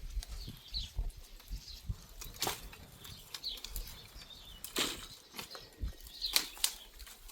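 Scattered knocks and clicks at irregular intervals, with short high chirps, like a small bird's, every few seconds.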